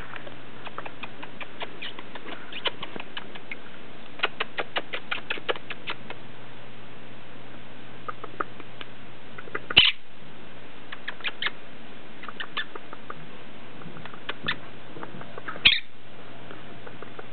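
Quaker parrot making quiet clicking sounds in quick runs, with two louder short sounds, one about ten seconds in and one near the end.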